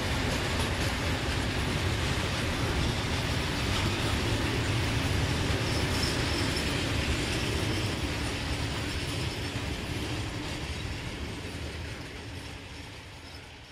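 A freight train's loaded open wagons rolling along the track. The sound holds steady, then fades away over the last five seconds or so as the end of the train moves off.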